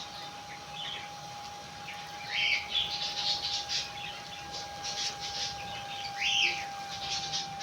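Small birds chirping in short bursts, with a cluster of calls about two seconds in and another about six seconds in.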